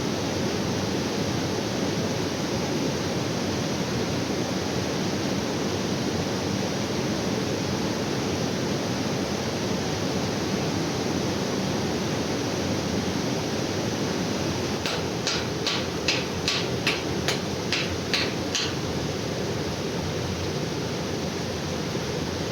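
Steady rush of a waterfall. About two-thirds of the way in, a run of about a dozen sharp taps, roughly three a second, lasts a few seconds.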